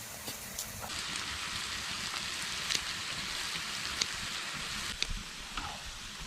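Pork belly sizzling on a cauldron-lid griddle: a steady hiss with a few sharp pops of spattering fat.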